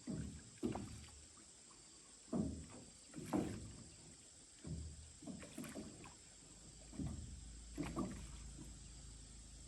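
Small boat being paddled on a lake, with irregular splashes and knocks of the paddle in the water about once a second.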